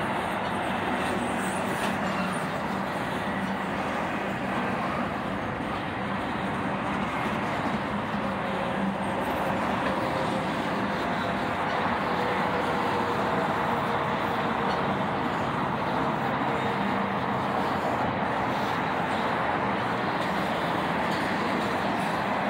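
Doublestack intermodal well cars rolling past, a steady rumble of steel wheels on rail.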